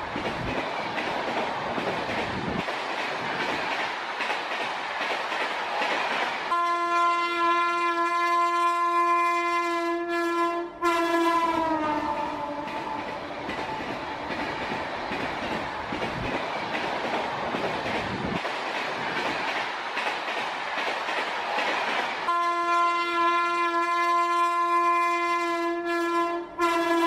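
Passenger train coaches running past on the rails with a steady rushing clatter. Twice a train horn sounds a steady blast of about four seconds, a quarter of the way in and again near the end. Each blast sags in pitch as it dies away.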